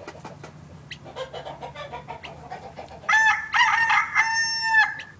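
Chickens clucking quietly, then about three seconds in a loud rooster crow from a cell phone's ringtone lasting about two seconds.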